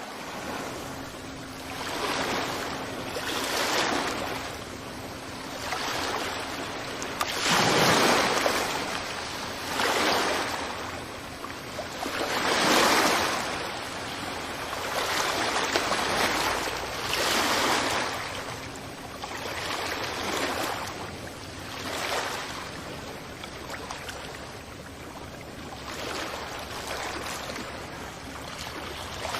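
Sea waves breaking on a beach, one after another, each surge of surf swelling and washing back about every two to three seconds.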